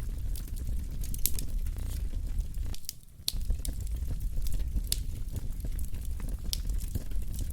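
Wood fire burning in a fireplace, crackling with frequent sharp pops over a steady low rumble of flame. The sound dips briefly about three seconds in.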